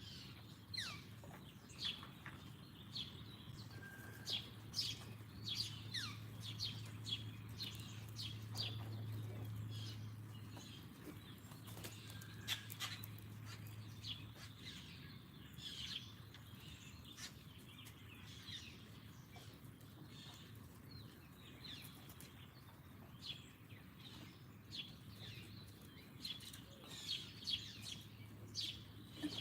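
Small songbirds chirping in many short, quick, downward-sweeping notes, calls overlapping throughout, over a low steady hum that is strongest in the first half.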